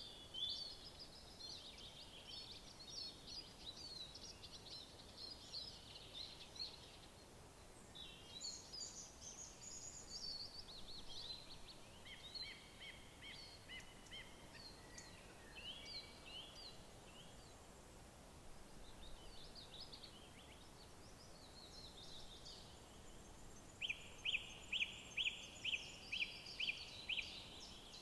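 Several woodland songbirds singing, with overlapping trills and chirps. Near the end one bird gives a run of about nine loud repeated notes, about three a second.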